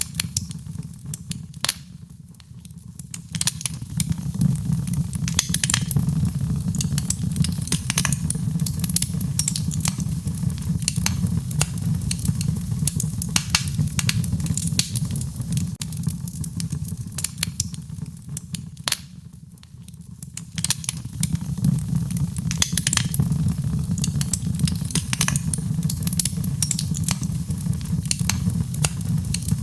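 Wood fire crackling and popping in a fireplace, sharp irregular snaps over a low steady rumble of the flames. The sound dips quieter briefly twice, about two seconds in and again about nineteen seconds in.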